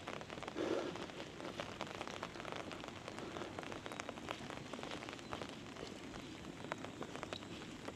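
Steady monsoon rain, with many sharp individual drop hits ticking over an even hiss; a brief louder low sound just under a second in.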